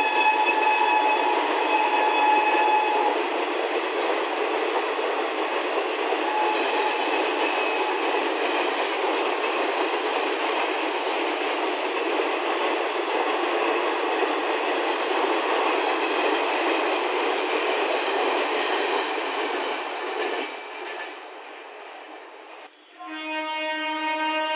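Indian Railways passenger coaches running past with a steady rumbling clatter of wheels on rail, fading away about 20 seconds in as the last coach clears. A train horn is sounding at the start and stops about 3 seconds in; about 23 seconds in a deeper train horn starts blowing.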